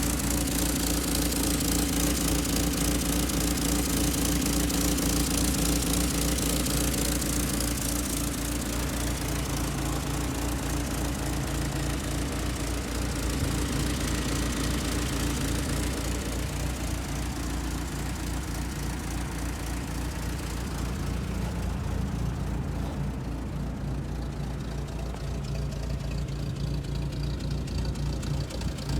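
1946 Willys Jeep's Go Devil four-cylinder flathead engine idling steadily, with an even, rapid run of firing pulses.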